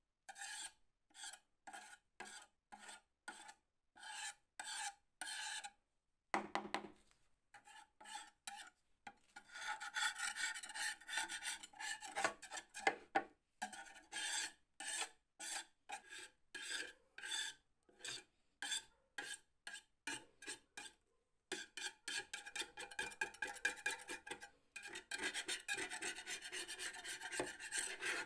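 Old sheet-metal mail box being abraded by hand in repeated back-and-forth strokes, with a faint metallic ring. The strokes come about twice a second at first, then quicken and run together in the last part.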